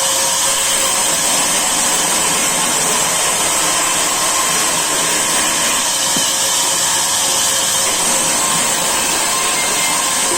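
Sawmill saw running steadily, a loud even whir with a strong high hiss and a few faint steady tones, with no change in load.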